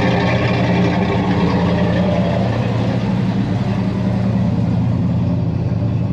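A 1980 Ford F-150's 400 V8 idling steadily while it warms up after a cold start. The owner says it still has an exhaust leak.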